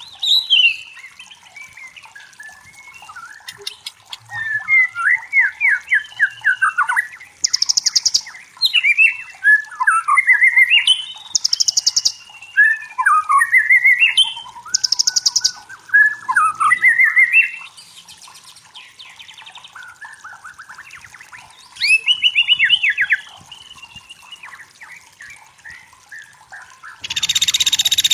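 White-rumped shama singing: varied whistled phrases and quick trills, broken every few seconds by short harsh buzzy notes, with a longer, louder harsh burst near the end.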